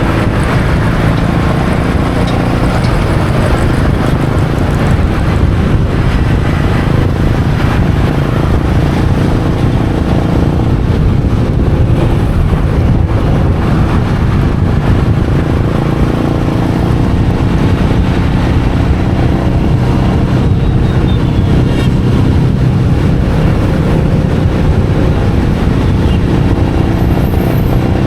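Royal Enfield Meteor 350's single-cylinder engine running steadily under way, its pitch drifting slightly up and down with the throttle.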